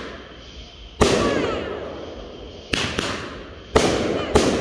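Aerial fireworks bursting overhead: five sharp bangs, one about a second in, two close together near three seconds, and two more near the end. Each bang is followed by a long fading tail.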